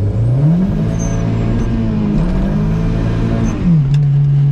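Turbocharged VW 1.8T four-cylinder accelerating hard. The revs climb, dip for a gear change about two seconds in, then climb again, with a faint high turbo whistle rising and falling during each pull. Near the end the revs drop to a steady cruising note.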